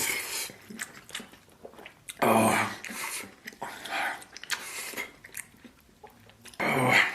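A person eating instant noodles: several loud bursts of slurping noodles and chewing, with quieter chewing between.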